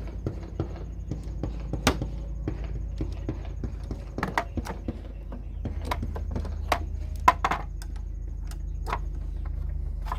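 Scattered, irregular sharp knocks and clicks over a steady low hum.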